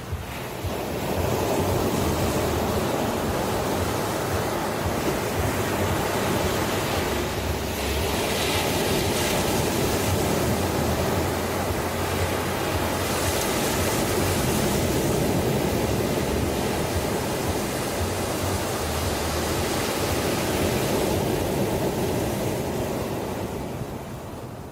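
Ocean waves breaking and washing on a shore: a continuous rush of surf that swells up about a second in and ebbs near the end.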